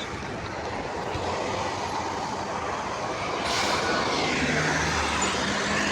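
Street traffic: a steady wash of road noise with a short hiss about three and a half seconds in, and a vehicle engine rising in pitch near the end.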